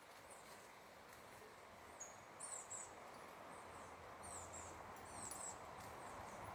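Faint steady rush of flowing river water, with a handful of short, high bird chirps, several in quick pairs, between about two and five and a half seconds in.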